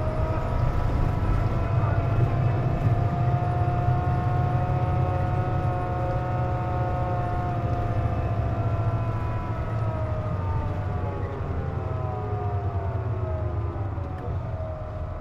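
Hino KC-JP250NTN city bus heard from inside, its diesel engine rumbling under a whine that climbs slowly as the bus gathers speed and sinks again in the last few seconds. This whine is the unusual noise the uploader puts down to the air conditioning running.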